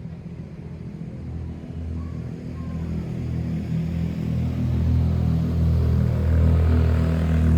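A low, steady rumble that swells gradually louder, with a hiss rising over it near the end.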